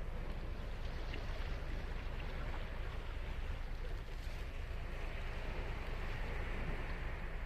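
Ocean waves breaking and washing up a beach in a steady rush of surf with a low rumble underneath. The surf swells a little about two thirds of the way through.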